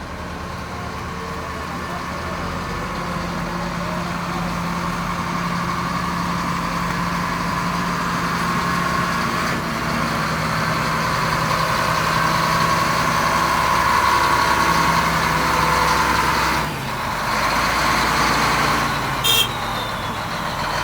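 Heavy diesel engine of an excavator running steadily and gradually getting louder. It dips briefly, then a short sharp sound comes near the end.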